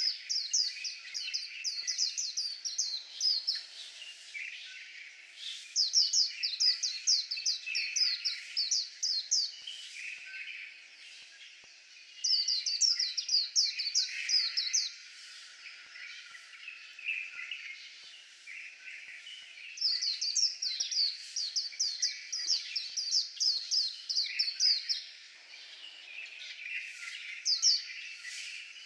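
White-eye singing: bursts of rapid, high, down-slurred twittering notes, each lasting two to four seconds. The bursts come five times, with a softer, steady twitter running between them.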